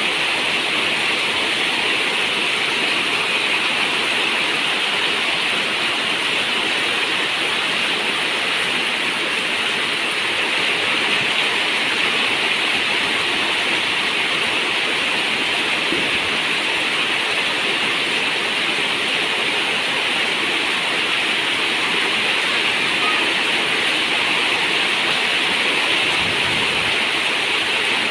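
Steady rain falling on a zinc roof, an even, unbroken hiss that holds at the same level throughout.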